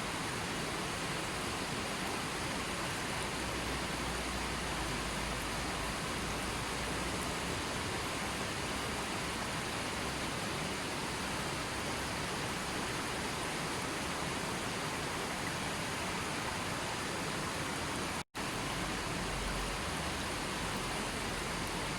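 Steady rushing of water, an even hiss with no separate drops or splashes. It cuts out completely for an instant about eighteen seconds in.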